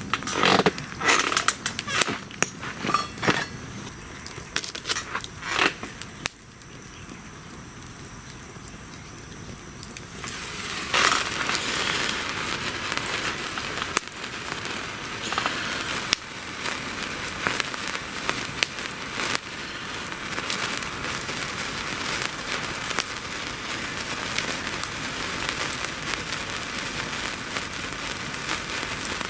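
Wood fire crackling, with a run of sharp pops in the first few seconds. About eleven seconds in a steady crackling hiss sets in and keeps going.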